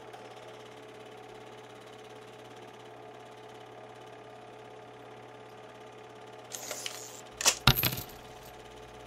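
A steady faint hum with a few held tones, then a brief rustle and a quick cluster of sharp clicks or clatters about seven and a half seconds in.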